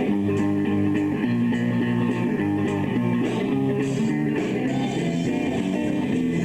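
Live rock/blues band playing an instrumental passage, guitars over bass and drums, steady and loud.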